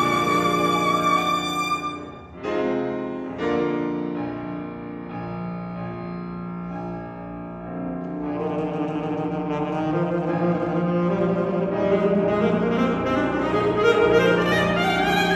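Alto saxophone and piano playing a contemporary classical sonata. A long high saxophone note ends about two seconds in and two piano chords follow. After a quieter passage, the music rises in pitch and grows louder toward the end.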